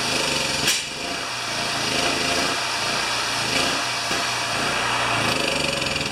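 Champion 3000-watt generator's small single-cylinder engine running steadily while an electric drill plugged into it runs, a steady high whine over the engine noise, showing the generator now puts out power. A sharp click comes about a second in.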